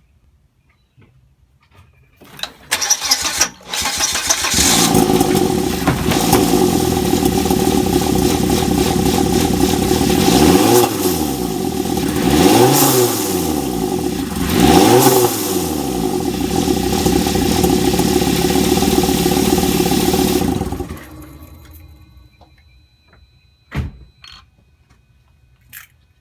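Volvo V70 T5's turbocharged five-cylinder engine cranked and started, then running with three brief blips of the throttle, its pitch rising and falling each time, before being switched off about 21 seconds in; the owner puts its running down to a vacuum leak. A couple of sharp clicks follow near the end.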